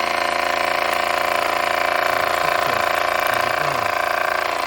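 Mamod SE1 toy steam engine running steadily under steam, its single oscillating cylinder driving the flywheel at speed with a fast, even mechanical beat.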